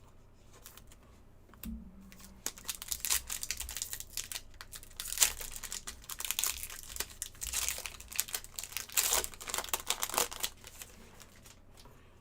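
Wrapper of an Upper Deck hockey card pack being torn open and crinkled by hand: a dense crackling that starts about two and a half seconds in and dies away near the end.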